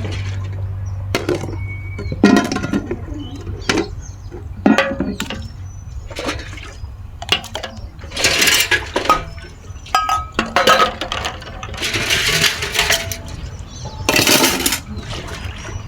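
Dishes and utensils clinking and knocking together as they are washed by hand, with water splashing and pouring in several longer bursts during rinsing.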